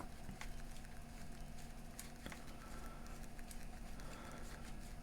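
Faint, scattered small clicks and taps of hands working a petroleum-jelly lubricant into a part of a portable CD player's plastic housing, over a steady low hum.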